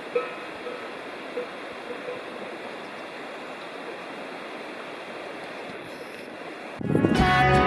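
Steady rushing of water, with a few small ticks or drips in the first couple of seconds.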